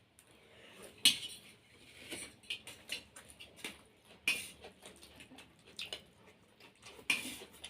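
Cutlery clinking and scraping against plates as two people start eating, in irregular clicks with occasional chewing and slurping, the sharpest click about a second in.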